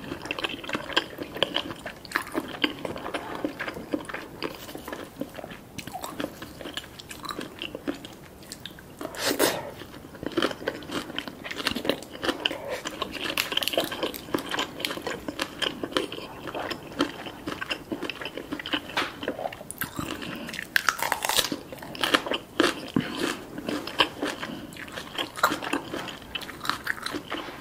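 A person chewing and crunching a mouthful of spicy green papaya salad topped with crispy chili chips. Crisp, crackly bites and chewing run throughout, with louder crunches about nine seconds in and again around twenty-one seconds.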